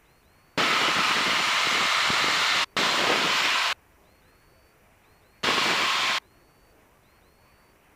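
Rushing cabin noise of a light aircraft coming through the headset intercom, which cuts in and out abruptly three times: about two seconds, then one second, then under a second. Between the bursts the intercom is squelched almost silent.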